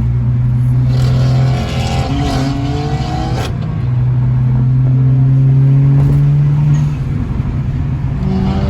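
Car engine pulling hard under acceleration, a steady low drone that eases off about a second and a half in and again near seven seconds.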